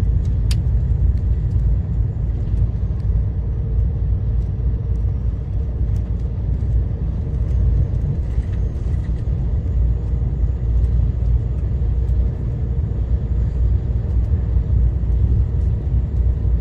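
Steady low rumble of a vehicle heard from inside its cab, with a faint steady hum above it and a single click about half a second in.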